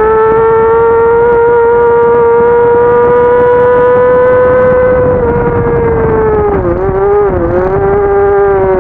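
Racing motorcycle engine at high revs in fourth gear, its pitch climbing slowly as the bike accelerates. About five seconds in the pitch sags and dips twice briefly as the throttle eases, then steadies lower.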